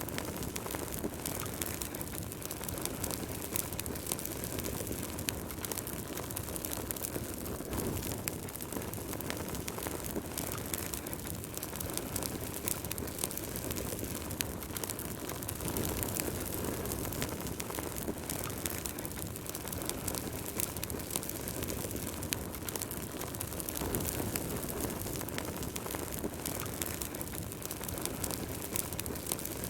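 Wood fire burning in a fireplace: a steady rush of flame with frequent small crackles and pops from the burning logs.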